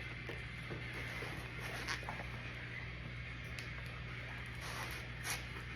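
Handling noise from a flexible 3D-printed grip being squeezed and bent by hand: faint rubbing and squeaking with a couple of short clicks, about two seconds in and again about five seconds in, over a steady low hum.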